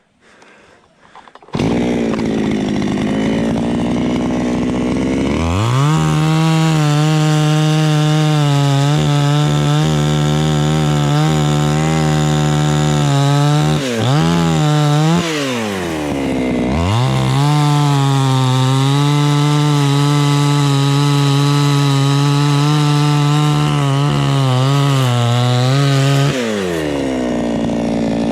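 Two-stroke chainsaw starting about a second and a half in and idling. It is then run at full throttle for about eight seconds, eases off briefly, and runs at full throttle again for about ten seconds before dropping back to idle near the end, as it saws through the trunk of a dried jackfruit tree.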